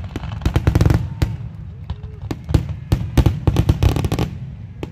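Aerial fireworks shells bursting in a dense barrage: rapid clusters of sharp bangs with short gaps between volleys.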